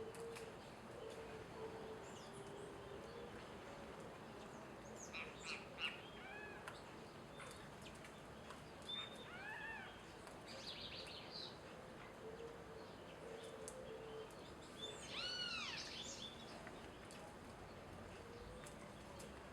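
Birds calling at a feeder: scattered short chirps, with clusters of quick rising-and-falling notes about five, nine and fifteen seconds in, the last cluster the loudest. A brief buzzy call comes around ten seconds in, over a faint low hum that comes and goes.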